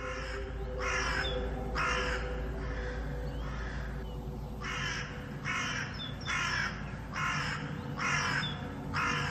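A crow cawing again and again, harsh calls about one a second with a short pause a few seconds in, over a steady low hum.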